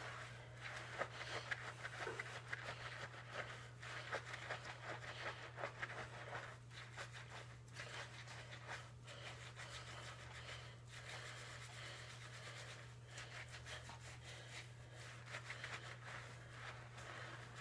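Fingers scratching and scrubbing a shampoo-lathered scalp, a faint, continuous wet crackle of suds and hair being rubbed.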